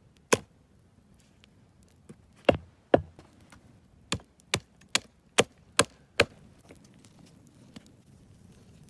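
Axe chopping wood: a few separate sharp strikes, then a quick steady run of six at roughly two and a half a second.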